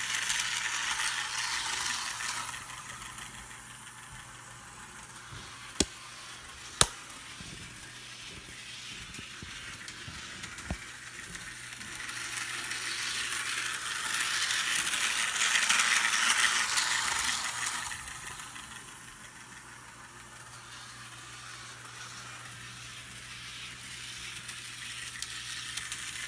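HO-scale Thomas the Tank Engine model locomotive running around the track: a hissing rattle of its motor and wheels that swells as it passes close, loudest about fifteen seconds in, and fades between passes. Two sharp clicks come about six and seven seconds in.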